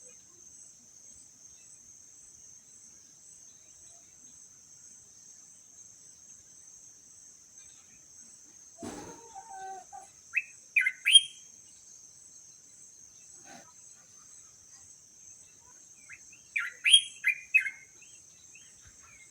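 A bird calling in two bursts of quick, loud chirping notes, one about nine seconds in and another near the end, over a steady high-pitched insect trill like a cricket's.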